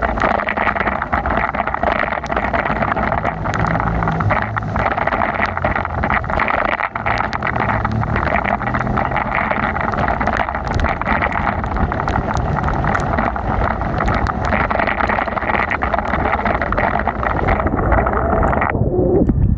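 Wind and rain noise on the microphone of a bicycle ride through heavy rain: a steady rush with a low rumble and many small ticks. It cuts off suddenly near the end.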